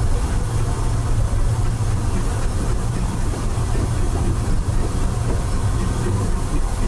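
Disneyland Railroad passenger train rolling along the track, heard from on board: a steady low rumble.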